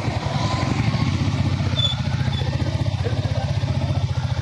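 Motorcycle engine running steadily while riding, an even fast low thrum.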